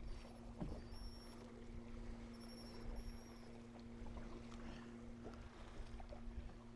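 Steady low hum of a bass boat's electric trolling motor over a low rumble of wind and water, with two brief faint high-pitched tones in the first few seconds.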